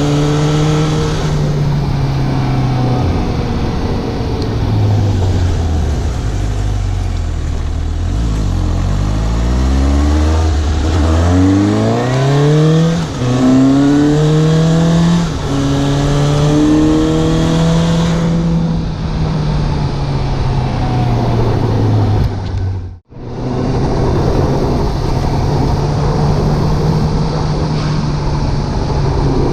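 Suzuki GSX750 motorcycle's inline-four engine under way, revving up through the gears: the pitch climbs and drops back at each upshift several times past the middle. It then slows with falling revs, cuts out for a moment about three-quarters through, and afterwards runs at a steady pitch.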